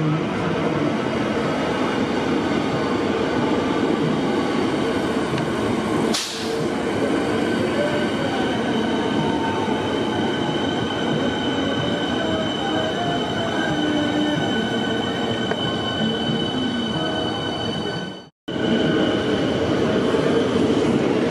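Metro Trains Melbourne electric suburban trains moving through the station: a continuous rush and rumble of wheels on rail with a steady high-pitched whine over it. A sharp cut comes about six seconds in, and the sound drops out briefly a little before the end.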